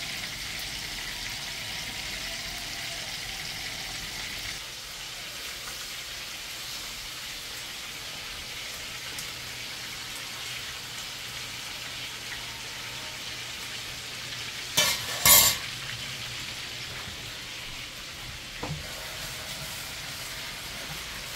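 Chicken pieces browning in oil in a frying pan, a steady sizzle, with two loud clatters close together about fifteen seconds in.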